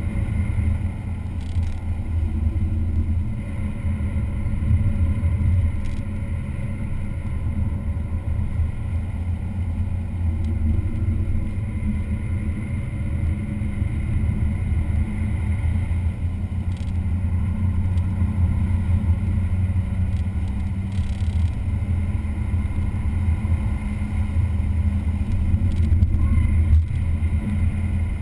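Car engine running at speed around a race track: a continuous low drone that rises and falls only slightly, with no sharp revving.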